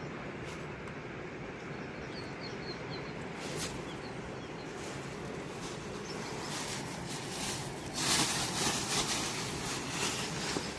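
Steady rush of a fast-flowing river, with a few faint bird chirps about two seconds in and a louder rushing, splashing noise for about two seconds near the end.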